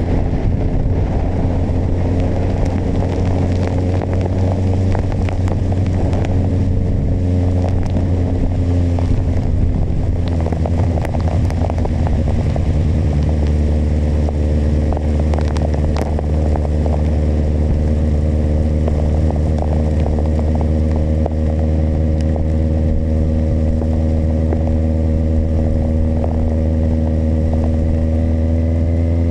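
Kawasaki motorcycle engine running at a steady cruising speed, its pitch holding level, with scattered crackling and ticking over it through roughly the first half.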